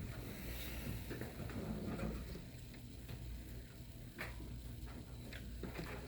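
Scattered footsteps, light knocks and rustling of people shuffling into position in a room, with a few sharp taps about four and five and a half seconds in, over a steady low hum.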